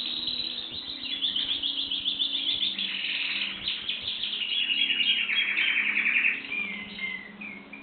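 Domestic canary singing a long, continuous song of rapid trills and rolls, which breaks off into a few short notes near the end.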